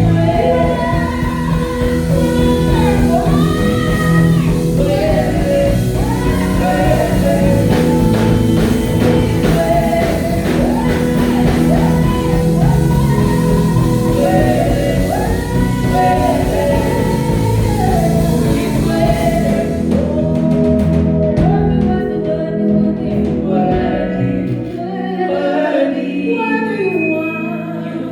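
Gospel worship song sung by a group of voices with a band; about two-thirds through, the instruments fall away and the singing carries on almost unaccompanied.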